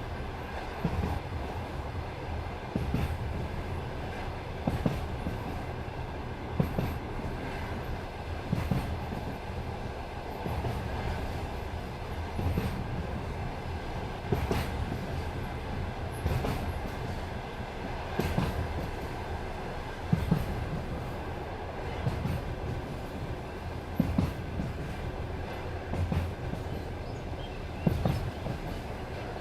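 Passenger railway carriage running along jointed track: a steady rolling rumble with a clack of the wheels over a rail joint about every two seconds.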